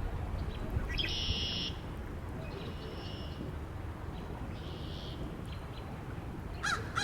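Steady low wind noise under three short high trills from a small bird. Near the end a crow starts cawing.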